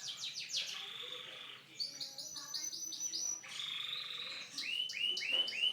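Domestic canary singing: runs of the same quick note repeated several times a second, switching between sweeping falling notes, a fast trill and, near the end, a run of lower notes.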